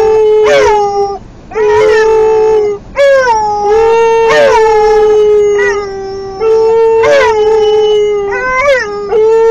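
A dog howling and crying over and over in complaint, fitting a dog unhappy at being taken out of the park. It gives about five or six long, steady-pitched howls in a row, each opening with a quick yelp that jumps up in pitch and falls back.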